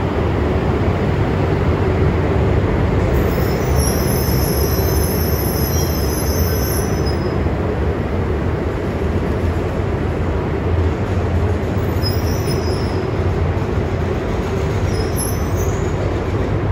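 E926 East-i Shinkansen inspection train rolling slowly along the platform with a steady rumble and low hum, coming to a stop near the end. High-pitched squeals come from the train three times: a long one a few seconds in and two short ones later.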